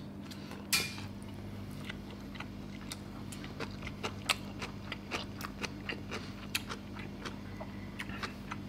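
Close-up chewing of crunchy cabbage kimchi: scattered small crunches and clicks, with a sharper one about a second in, over a steady low hum.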